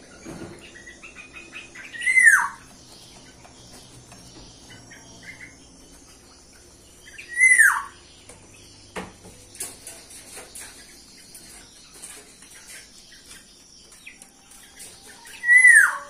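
A bird giving a loud, harsh call that slides downward in pitch, three times, with faint chirps from other birds in between.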